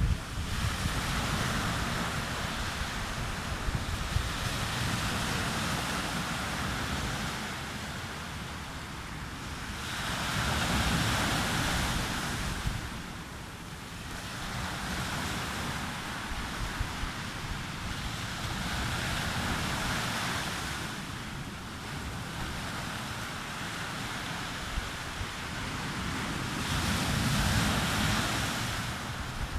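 Sea waves breaking and washing up a beach, swelling and ebbing every several seconds, with wind buffeting the microphone in a low rumble.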